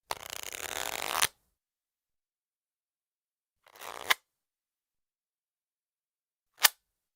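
A deck of playing cards being riffle-shuffled: a fluttering run of cards of about a second that ends in a sharp snap, then a shorter riffle about four seconds in. A single sharp tap of the cards follows near the end.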